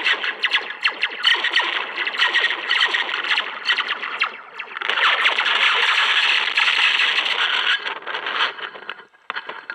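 Metal slinky heard through a contact microphone: its coils clatter in a dense run of rapid clicks with a harsh, distorted metallic rattle, dipping briefly about halfway and breaking off near the end.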